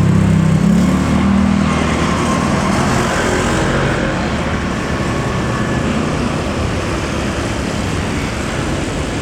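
Jet airliner passing close by, its engine noise loud at first and slowly fading.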